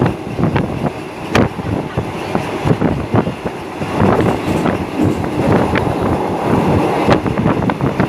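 Passenger train coach rolling along the line: a steady rumble with wheels clattering and knocking irregularly over the track, with sharper clanks about a second and a half in and near the end.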